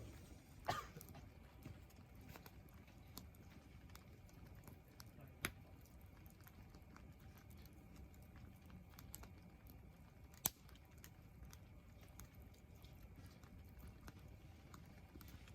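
Faint crackling of a wood campfire: small scattered ticks over a low steady hiss, with three sharper pops, about a second, five and a half seconds and ten and a half seconds in.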